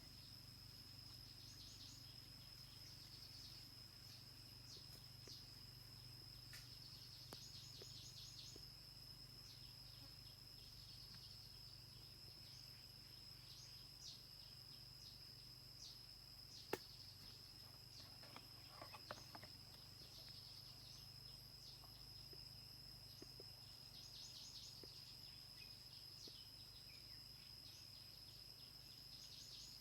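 Faint insect chorus: a steady high-pitched drone with short bursts of rapid chirping every few seconds. A single sharp click sounds about 17 seconds in.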